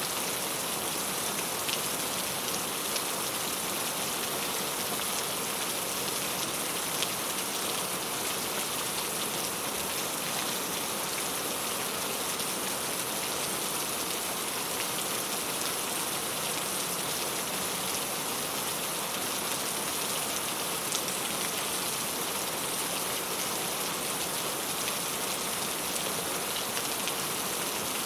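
Steady rain falling on a clay-tile roof: an even hiss with scattered small ticks of individual drops.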